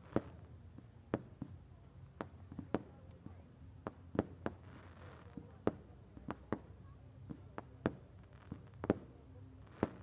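Fireworks going off: an irregular run of sharp bangs and cracks, about two a second, with a brief hiss about halfway through.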